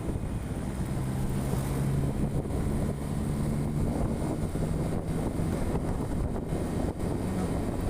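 A vehicle on the move: steady engine and road rumble with wind buffeting the microphone, and a low engine hum that comes in about a second in and fades out around five seconds.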